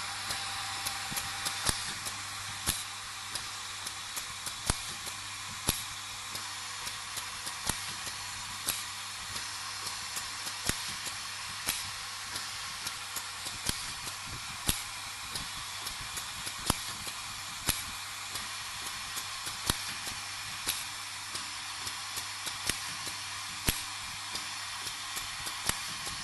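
Wood dowel drilling and dowel-driving machine running: a steady hiss with a low hum, and a sharp knock about once a second as it cycles.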